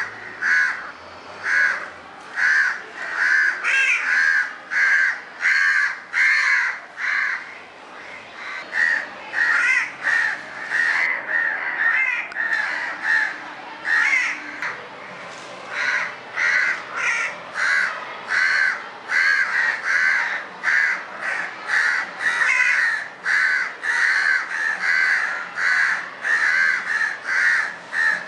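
House crows cawing repeatedly, about two harsh caws a second, with a looser run of more varied calls midway through.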